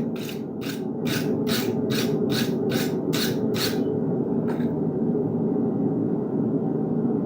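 Regular scraping strokes of a hand tool worked over the iron, about two and a half a second, stopping about four seconds in, with one fainter stroke after. A steady low roar runs underneath.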